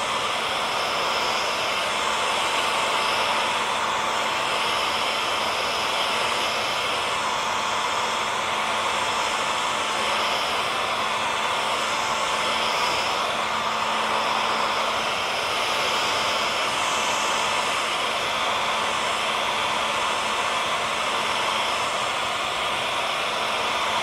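Hair dryer running continuously: a steady rush of air with a constant motor hum and a faint high whine.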